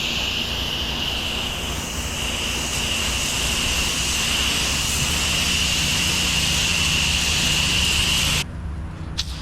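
Gas pressure washer spraying a high-pressure jet of water: a steady, loud hiss over the engine's hum, which cuts off suddenly near the end as the spray stops while the engine keeps running.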